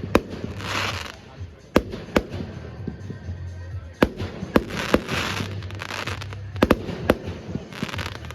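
Fireworks going off: sharp bangs at irregular intervals, some in close pairs, with bursts of hiss in between.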